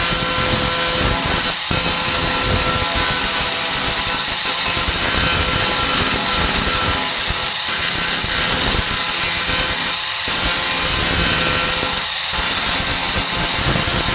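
4-1/2 in. corded angle grinder with a Type 27 grinding disc running steadily against steel, grinding down the flux-core welds on a sheet-metal tailgate patch: a constant whine with the hiss of the disc on metal.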